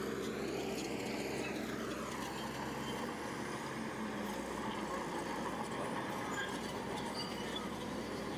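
Heavy diesel earthmoving machine running steadily, with a high whine that drops in pitch about one to two seconds in.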